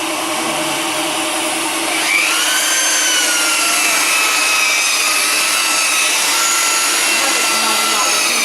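Electric polishing or grinding machine working a fossil-stone slab: a steady hiss of abrasion, joined about two seconds in by a motor whine that rises briefly and then holds steady.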